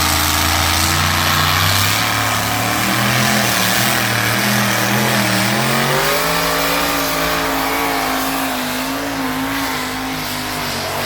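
Pulling tractor's engine running hard at full load during a pull, its pitch wavering and stepping up about halfway through.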